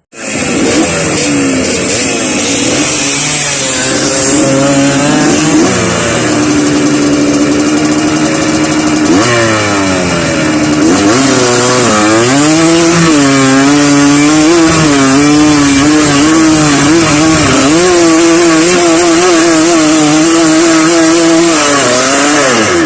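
Dirt bike engine running under throttle, its pitch rising and falling again and again as the revs change.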